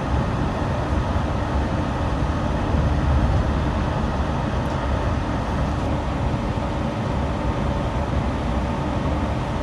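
Yurikamome rubber-tyred automated guideway train running: a steady low rumble with a faint constant hum over it.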